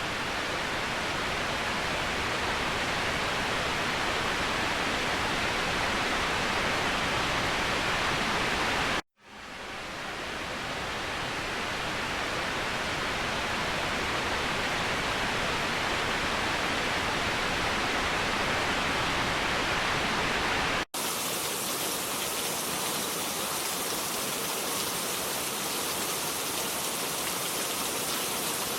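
Steady rushing of a waterfall, an even wash of falling water. It cuts to silence for a moment about nine seconds in and swells back up. After a second brief cut about two-thirds of the way through, the water sounds thinner, with less low rumble.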